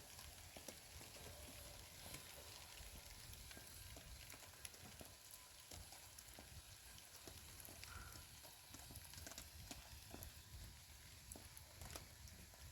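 Near silence: a faint, even crackling hiss with scattered small clicks.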